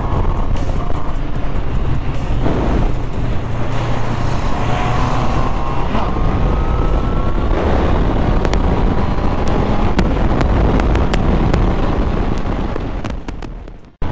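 Honda CB650R's inline-four engine running at road speed under heavy wind rush, its pitch climbing over a few seconds in the middle as it accelerates. The sound fades out near the end.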